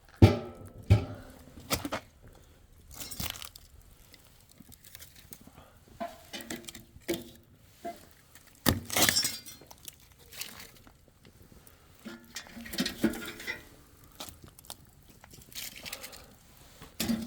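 Irregular clinks and knocks of hard objects being handled, a dozen or so separate strikes, with a longer rasping burst about nine seconds in.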